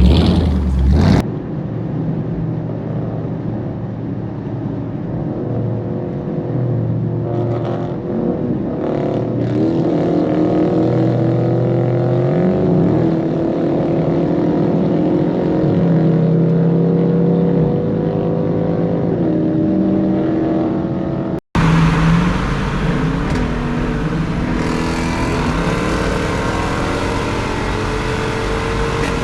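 Car engines idling and revving, their pitch rising and falling, with a loud burst in the first second and an abrupt cut about two-thirds of the way through.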